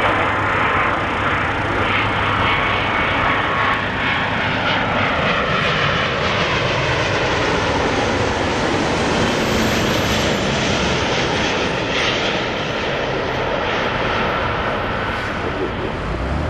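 Boeing 777-200ER's Rolls-Royce Trent 892 jet engines as the airliner flies past on its landing approach: a loud, steady rush with whining tones that fall in pitch as it goes by.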